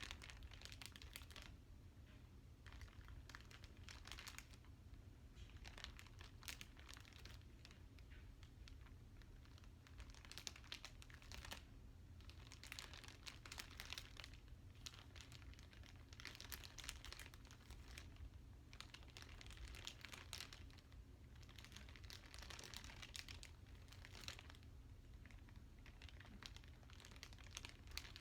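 Plastic wrapping crinkling and rustling in irregular bursts as it is handled, over a faint steady low hum.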